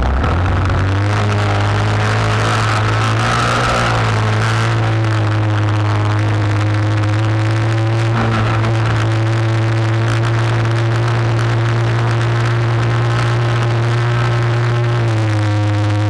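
Radio-controlled speedboat's motor running hard at a fairly steady speed, its pitch drifting slowly. It picks up again after a dip at the start and eases off slightly about a second before the end.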